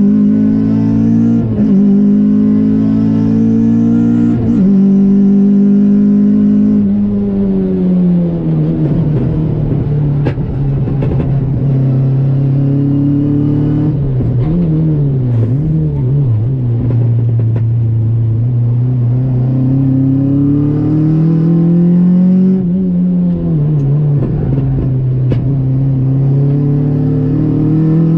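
Honda D-series four-cylinder engine of an EK Civic race car heard from inside the cabin on track, its note climbing as it pulls and falling when the throttle comes off. Several drops in pitch, with a few quick rev blips about halfway.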